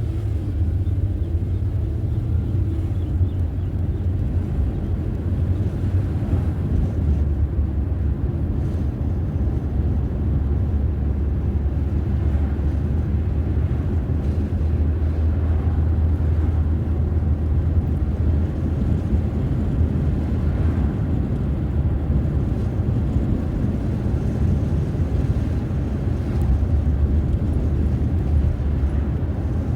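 Steady low rumble of a car being driven, road and engine noise heard from inside the moving vehicle.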